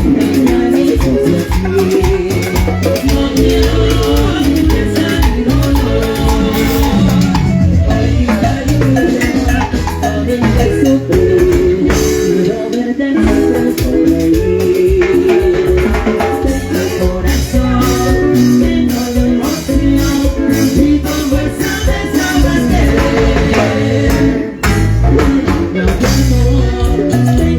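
Live tropical dance band playing a cumbia-style tune with a steady beat, shakers and melodic instruments, mostly instrumental with little or no lead singing.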